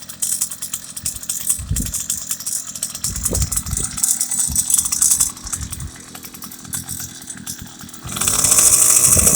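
Small two-stroke engine of a motorised bicycle idling with a fast, rattly chatter while warming up after start-up, running on a fuel mix with extra oil; near the end it is revved up much louder.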